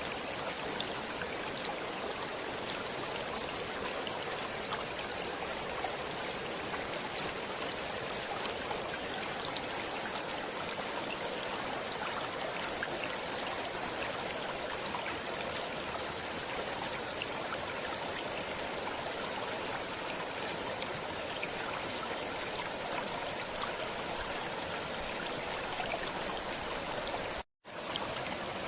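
Flowing water running steadily, a continuous rushing splash with fine droplet detail. It breaks off to silence for a split second near the end, then resumes.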